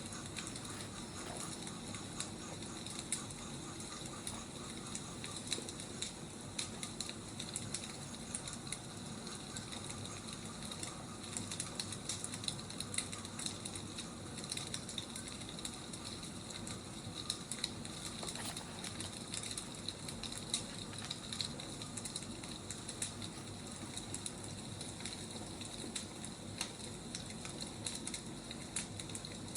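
Burning firewood crackling steadily, with a constant soft hiss and frequent small, irregular pops and snaps.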